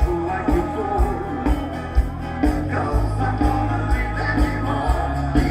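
Rock music with singing over a steady drum beat of about two strokes a second and a bass line.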